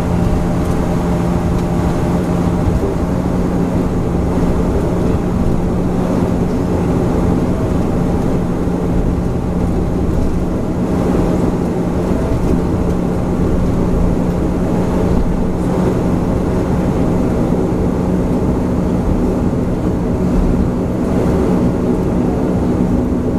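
Bombardier Q400's Pratt & Whitney PW150A turboprop engines and propellers running steadily, heard from inside the passenger cabin as an even drone with a constant low hum.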